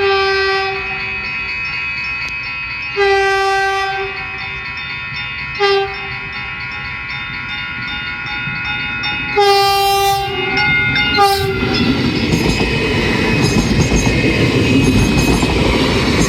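Train horn sounding the grade-crossing signal: two long blasts, one short, then a long one with a brief extra toot. The train then rushes through the crossing at speed, its wheels clattering on the rails, the noise building.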